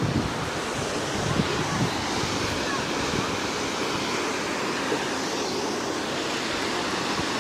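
Waterfall roar, a steady rushing of falling water, with wind buffeting the microphone now and then.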